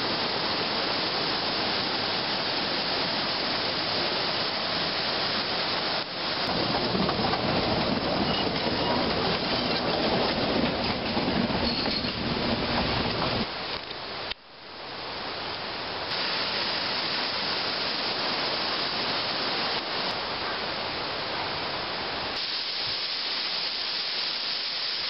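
Passenger train running past on the rails, louder for several seconds about a quarter of the way in, set against a steady rushing noise. Near the end the sound cuts to the rush of a waterfall.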